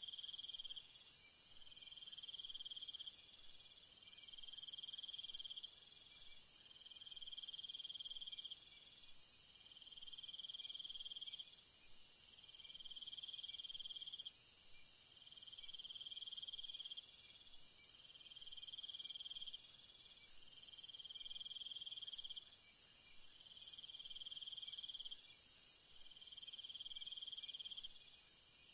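Night insect chorus in a jungle: a constant high-pitched shrill, with another insect calling in long, even pulses, roughly one every two seconds.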